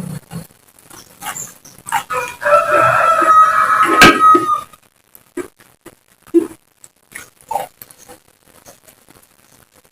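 A rooster crowing once, a loud call of about two and a half seconds in the middle, with a sharp click near its end. Before and after it come short, scattered crunching and smacking sounds of chewing raw vegetables.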